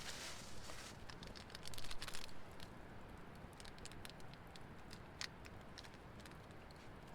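Two short rustles in the first two seconds, then scattered faint clicks and ticks.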